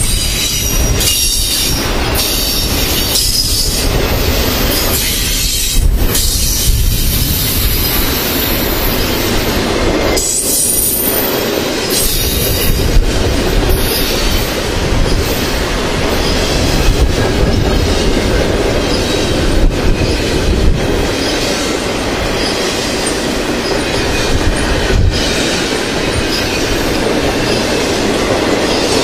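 Double-stack container well cars rolling past: a steady rumble of steel wheels on rail, with clacks over rail joints and thin, high wheel squeals that come and go in the first half.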